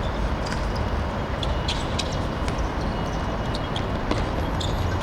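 Outdoor ambience at a seven-a-side football match: a steady low rumble with scattered light taps and clicks throughout.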